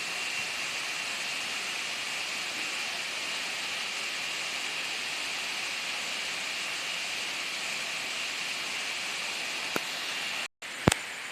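Steady rush of a waterfall's falling water, an even hiss-like noise. The sound cuts out briefly near the end and comes back with a sharp click.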